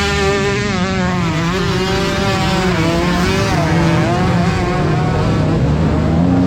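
Several motocross bike engines revving, their notes rising and falling and overlapping, over a steadier low engine note.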